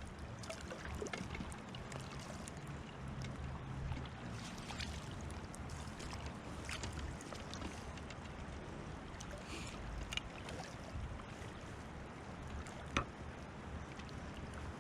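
Steady rushing noise of river water with wind on the microphone, broken by a few faint clicks and knocks: a low thump about ten seconds in and a sharp click about three seconds later.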